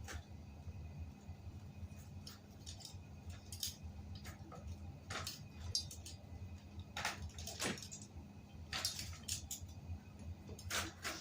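Scattered light metallic clinks and knocks of bicycle parts and tools being handled during a tire change, over a steady low hum.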